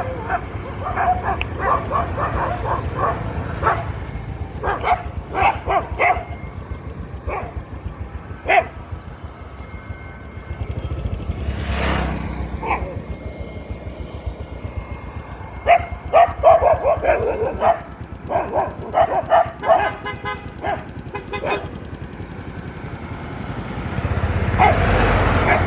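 Dogs barking in rapid runs of short barks, several bouts with pauses between, over traffic rumble, with a vehicle passing close about halfway through.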